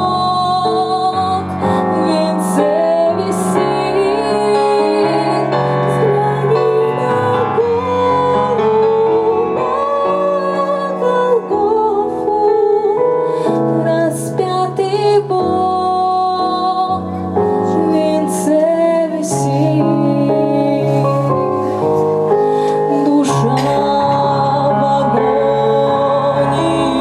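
A woman singing a hymn-like song with vibrato over piano accompaniment.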